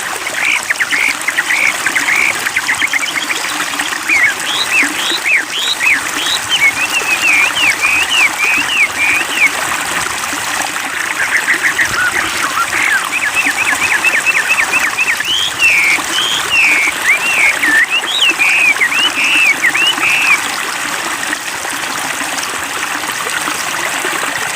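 Wambi bird singing: quick runs of short sweeping whistled notes in repeated phrases, over steadily running water. The bird stops about 20 seconds in, leaving only the water.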